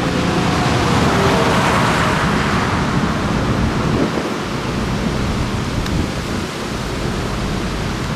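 Steady rushing road, tyre and wind noise from a Scania truck on the move; its engine tone fades out in the first second.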